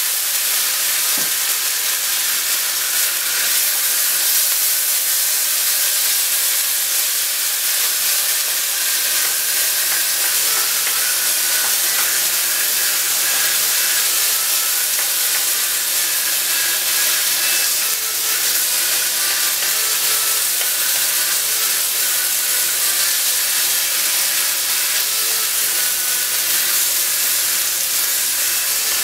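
Marinated chicken strips sizzling in hot oil and soy sauce in a wok: a steady, dense hiss.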